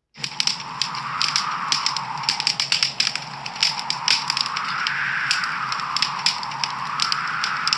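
Wood fire crackling and popping in a fireplace, with many irregular sharp pops over a steady rushing hiss of the flames. The sound fades up from a brief dropout at the very start.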